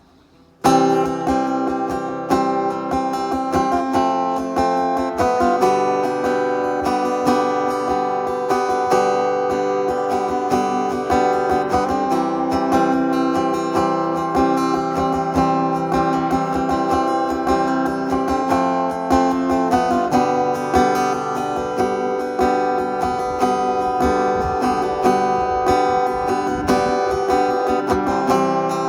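Acoustic guitar strummed and picked as a song's instrumental introduction, coming in suddenly about half a second in and changing chords a few times.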